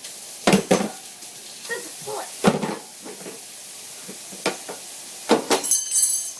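Dishes and utensils clattering and knocking several times over a steady hiss, with a quick cluster of clatters near the end.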